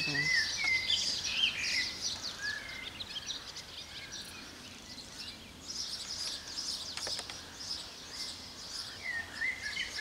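Small birds chirping and singing, several at once, in quick short notes over a faint outdoor hiss; the chirping is busiest in the first couple of seconds and again from about halfway. A single sharp click comes about seven seconds in.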